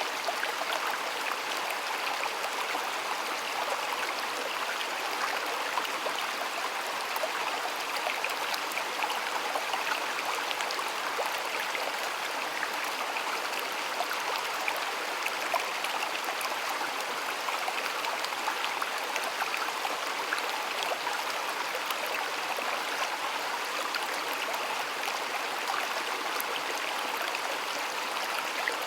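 Flowing stream water running steadily over stones, a continuous bright rush with fine splashing and trickling.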